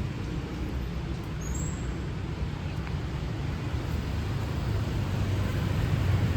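City street traffic: a steady rumble of passing vehicles, growing louder near the end.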